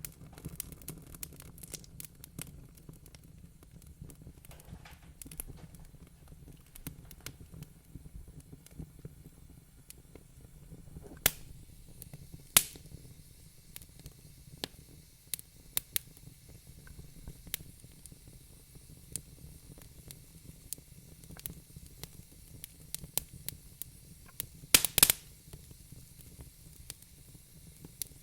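Fireplace fire crackling, irregular small pops and snaps over a soft hiss, with a few sharp louder snaps partway through and a quick cluster of them near the end.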